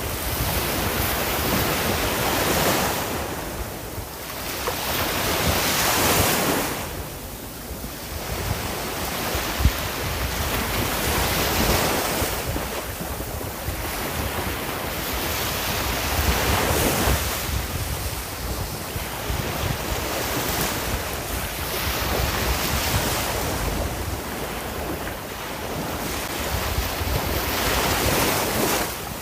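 Ocean waves breaking and washing on the shore, the surf swelling and falling back every few seconds. Wind rumbles on the microphone underneath.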